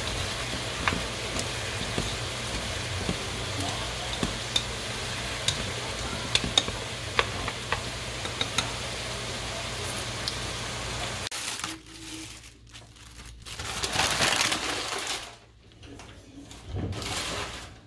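Chicken pieces sizzling in a metal pot with a steady hiss, while wooden chopsticks stir them and click against the pot now and then. After about eleven seconds the sizzling cuts off abruptly, and a few short handling rustles follow.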